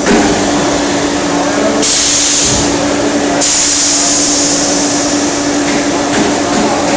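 A monoblock washer-filler for large water jugs running, with a steady motor or pump hum under constant machine noise. Two hissing bursts of pressure-jet spray wash the jugs: a short one about two seconds in, and a longer one of about two seconds that follows.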